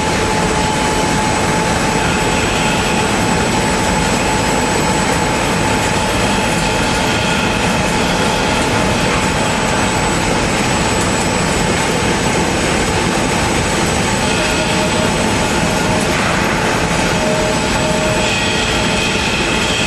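Steady, loud mechanical noise of running machinery, even in level throughout, with faint high tones over a dense roar.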